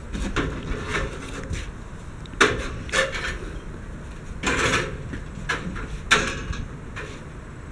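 A series of irregular knocks and thuds, about six over several seconds, some sounding like wood being bumped or set down.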